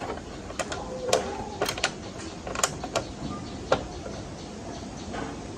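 Light metallic clicks and taps coming irregularly, about eight in the first four seconds, from tools and small parts being handled during motorcycle repair work.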